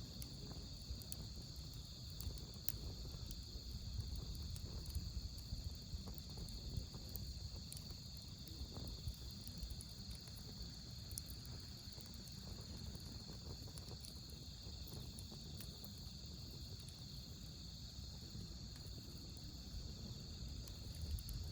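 Wood campfire burning with a low rumble and scattered small crackles and pops. Autumn crickets trill steadily and high-pitched behind it.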